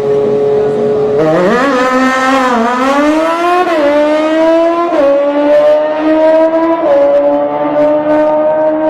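A high-performance engine launching and accelerating hard through the gears. Its pitch holds for about a second, then climbs and drops back at each upshift, four or five times in a row.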